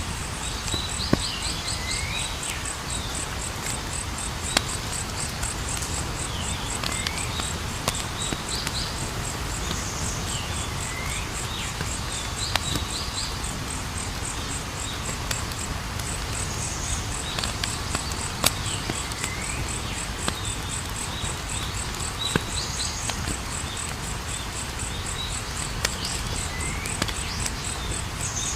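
Campfire crackling over a steady low rush, with sharp pops every second or two. Behind it, insects chirp in a fast steady pulse, and a short falling bird call repeats about every three to four seconds.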